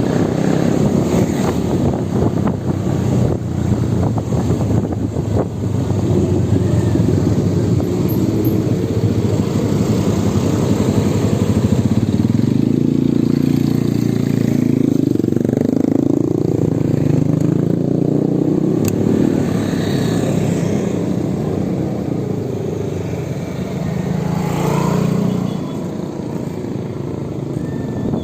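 Electric motorbike on the move, with heavy low rumbling, likely wind on the microphone. A series of rising tones comes through about halfway.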